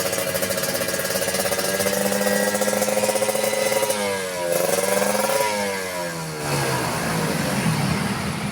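Kawasaki Ninja two-stroke single-cylinder engine revving through an aftermarket galvanised steel exhaust. It is held steady at high revs, drops about four seconds in, is blipped up once, then falls back toward idle with a small blip near the end.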